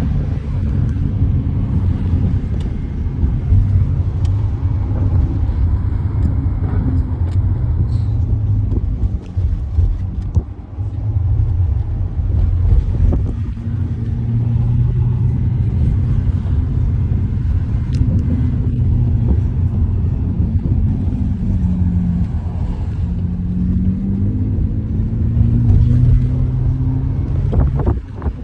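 Car engine and road rumble heard from inside the cabin while driving, with the engine's pitch dipping and rising a few times as the speed changes.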